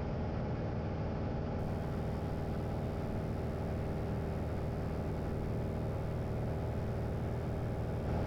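Light aircraft's engine and propeller droning steadily in cruise flight.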